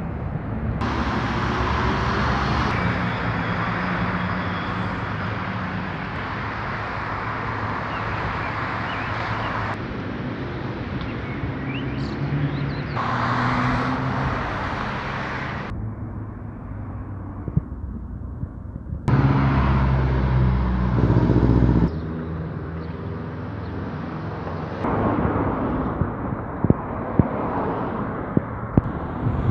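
Outdoor street ambience with road traffic running steadily, made of several recordings joined by abrupt cuts.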